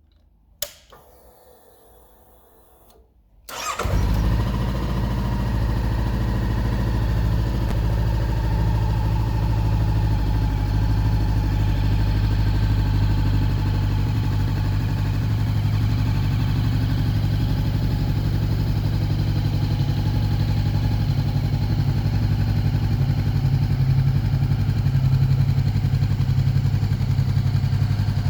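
A click, then about three and a half seconds in the 2019 Honda CBR500R's parallel-twin engine, fitted with a Leo Vince aftermarket exhaust, is started and settles into a steady idle.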